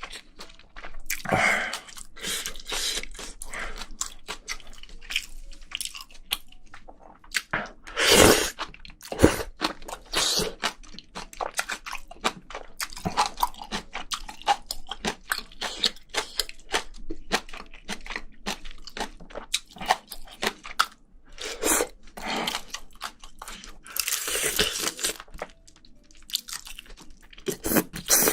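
A person eating spicy braised seafood and vegetables: close-up chewing and crunching with many short, irregular wet crackles and a few louder bites.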